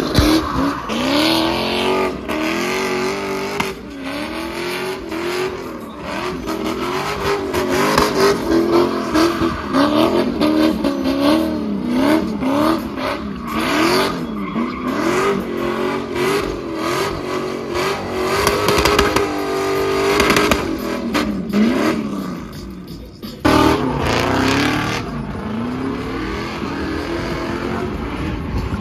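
V8 cars being driven hard while drifting: engines revving up and down over and over under a haze of tyre squeal. The sound changes abruptly about three-quarters of the way through.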